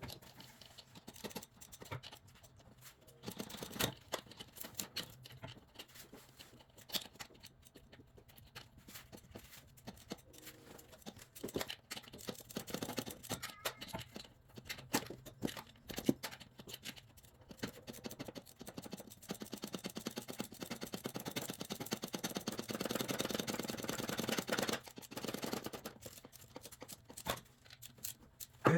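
Hand tools on a car's alternator mounting, with sockets and a wrench on the bolts: irregular metal clicks, taps and scrapes. A longer spell of rapid, dense clicking comes about two-thirds of the way in.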